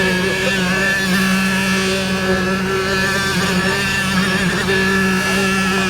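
Engine of site machinery running steadily at an even speed, a constant hum with many overtones.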